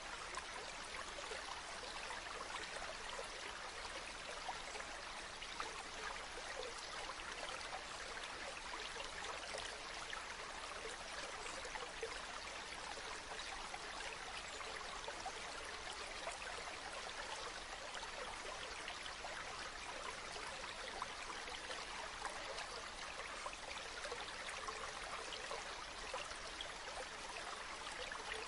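Steady running water of a stream.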